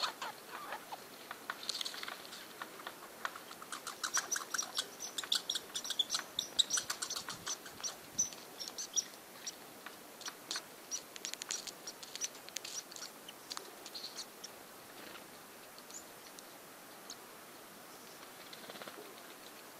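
Female hairy woodpecker at a suet chunk held in a hand: rapid runs of sharp taps and short high chips, busiest in the first half and thinning out after about fourteen seconds.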